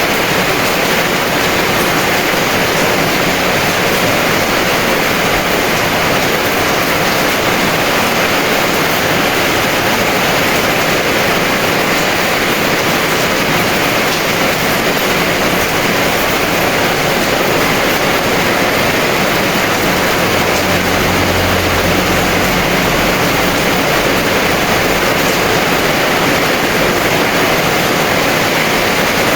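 Heavy rain falling as a steady, dense hiss, with a faint low rumble about twenty seconds in.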